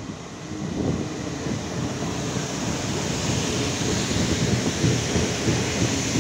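Diesel multiple unit SA137-005 rolling past close by on the platform track, a dense rumble of wheels on rail and running gear with hiss above it, getting louder in the first second and then steady.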